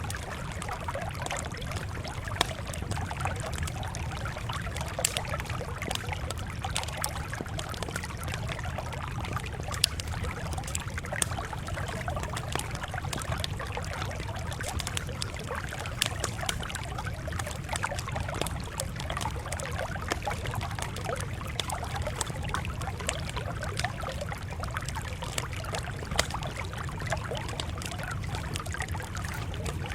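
Campfire crackling: a steady hiss of small crackles with sharp pops scattered through it, over a constant low rumble.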